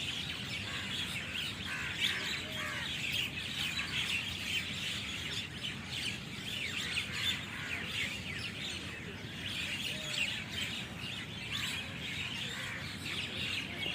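A dense, unbroken din of hundreds of birds, many of them starlings, chirping and calling together as they settle to roost in a tree at dusk.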